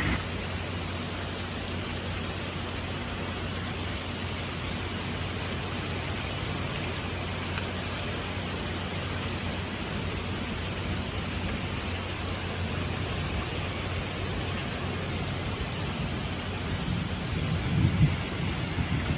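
Steady rain falling, an even hiss. Near the end a low rumble swells briefly and fades.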